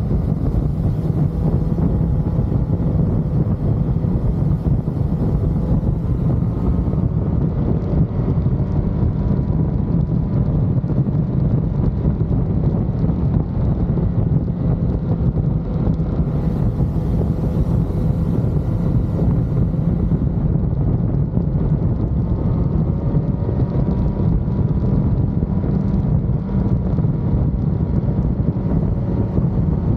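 Wind buffeting the microphone over a motorcycle riding at steady cruising speed, with faint engine tones that drift gently up and down.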